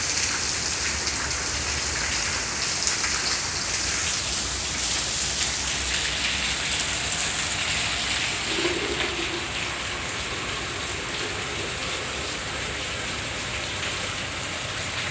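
Steady rain falling, with a stream of runoff pouring off the roof edge into a plastic jug held under it.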